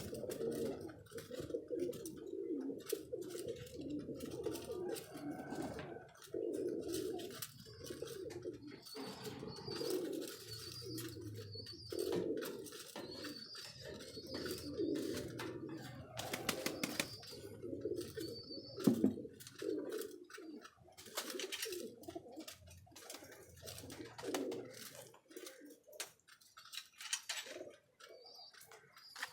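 Domestic pigeons cooing over and over, several birds overlapping, with scattered sharp taps and clicks. The cooing dies down near the end.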